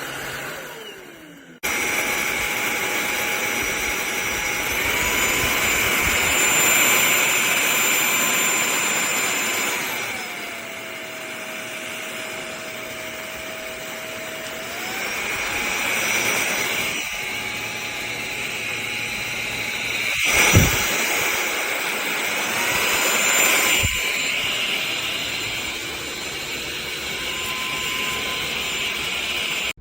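MBYULO 600 W cordless stick vacuum running: the motor switches on with a sudden start and a high whine whose pitch steps up and down a few times, with a few knocks along the way, and it cuts off sharply at the end.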